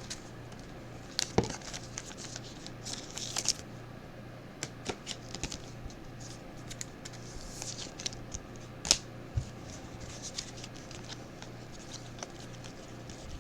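Panini Mosaic football trading cards being handled and flipped through, a scatter of light clicks, slides and swishes of card on card.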